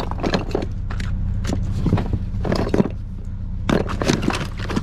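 Small hard objects, toy cars and other odds and ends, clattering and scraping as hands rummage through a box of trash, in quick irregular clicks over a steady low hum.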